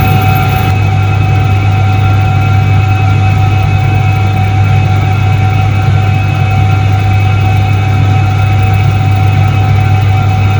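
1978 Soviet ISET-3 washing machine running: a steady motor hum with a constant higher whine over it, unchanging throughout.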